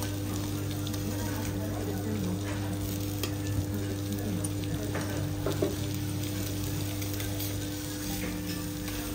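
Food sizzling steadily on a hot teppanyaki griddle, with a steady low hum underneath and a couple of faint clicks.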